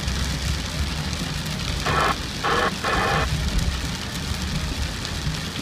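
Rain falling on a car, with the engine running steadily underneath. About two to three seconds in come three short, louder sounds in the middle range.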